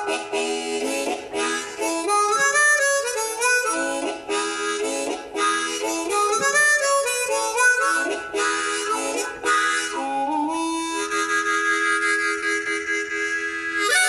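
Harmonica playing a solo with full chords, changing every beat or so, then settling into one long held chord for the last few seconds.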